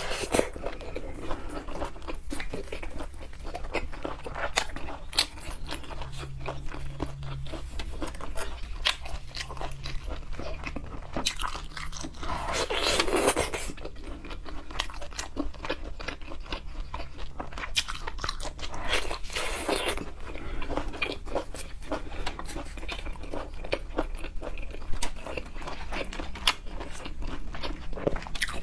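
Close-miked chewing and biting of seafood, with many small crunching clicks, and two short louder rushes of noise about thirteen and twenty seconds in.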